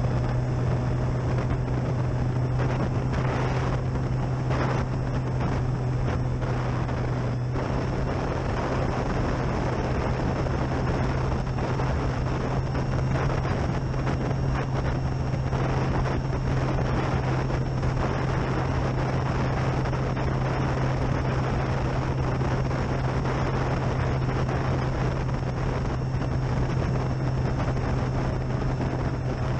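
Electric motor and propeller of a Durafly Tundra RC plane droning steadily in flight, stepping up slightly in pitch about seven seconds in, with a faint high motor whine. Gusty wind buffets the microphone throughout, in the strongest gusts during the first several seconds.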